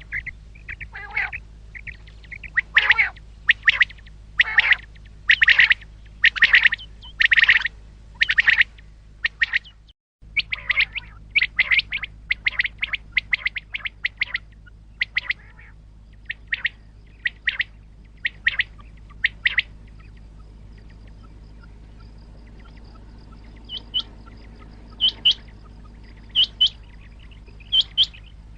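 Common quail calling over and over: loud calls about once a second, then after a brief break a quicker run of short calls that thins out, with a few higher, fainter calls near the end. A steady low hum lies under the calls.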